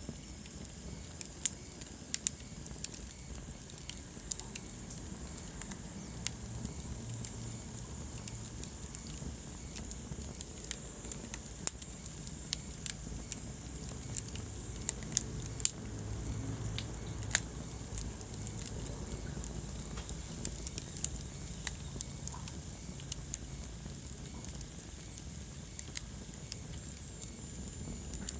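Wood fire burning in a fireplace: a steady low rumble of flames with irregular sharp crackles and pops, thickest around the middle.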